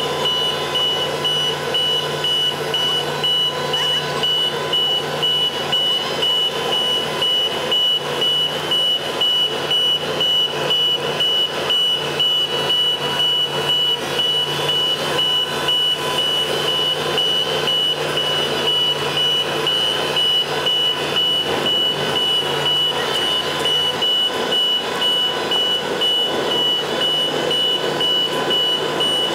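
Ascom 700-ton boat hoist running under test: its engine hums steadily while its motion warning alarm sounds one unbroken high-pitched tone.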